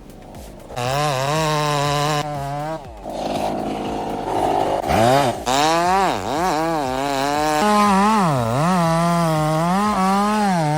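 Gas chainsaw engine running, its pitch rising and falling again and again as the throttle is worked, with a stretch of rougher noise a few seconds in.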